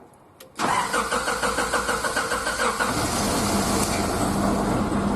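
Car starter motor cranking the engine in a quick, even rhythm for about two seconds after a click. The engine catches about three seconds in and settles into a steady idle.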